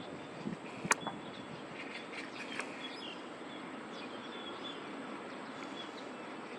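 Open-air city ambience: a steady hum of distant traffic, with a sharp click about a second in and a few short bird chirps soon after.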